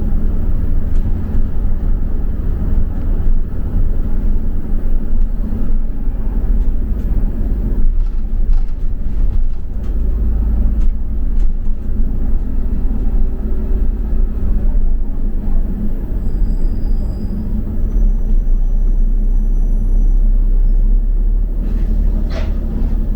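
Double-decker bus in motion, heard from on board: a steady low rumble of engine and road noise.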